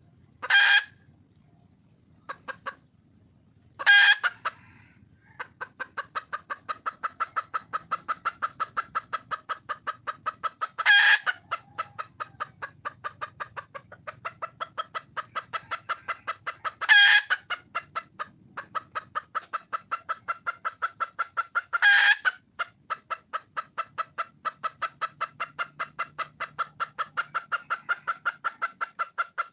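Wild red junglefowl hen calling for a mate: a long run of rapid clucks, broken every five or six seconds by a loud, short squawk.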